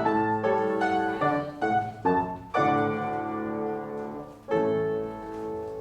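Piano playing classical ballet-class accompaniment: chords struck and left to ring, with a long held chord from about 2.5 s and another from about 4.5 s.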